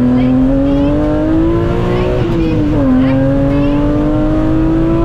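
BMW Compact M3 rally car's engine heard from inside the cabin under hard acceleration: its pitch climbs steadily, drops once as the driver shifts up about two and a half seconds in, then climbs again in the next gear.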